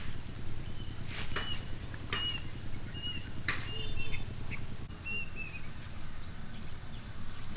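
A bird calling in short, high, slightly arched chirps, about one a second, with a few sharp clicks and a steady low rumble underneath.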